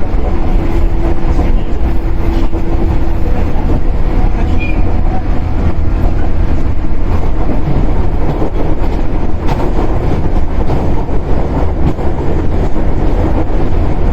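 Running noise inside a Shinano Railway 115-series electric multiple unit motor car (KuMoHa 115-1013) under way: a steady low rumble of wheels on rail and the running gear. A faint steady tone fades out about three seconds in.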